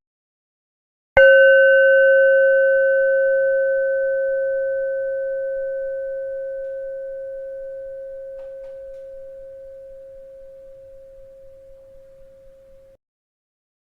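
A bell struck once about a second in, ringing one clear tone with a few higher overtones. It fades slowly for about twelve seconds, then cuts off abruptly.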